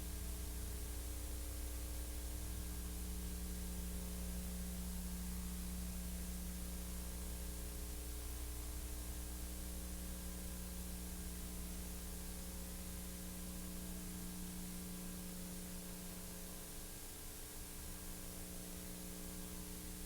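Steady hiss with a low electrical mains hum and its overtones, unchanging throughout: the background noise of a silent-film transfer, with no sound of its own.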